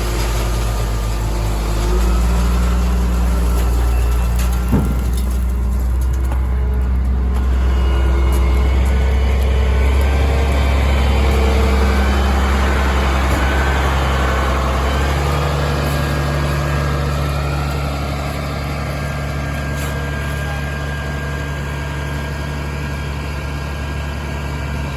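2000 Chevrolet C7500 dump truck engine running steadily at low speed, with a short knock about five seconds in; the engine note changes about fifteen seconds in and runs a little quieter after.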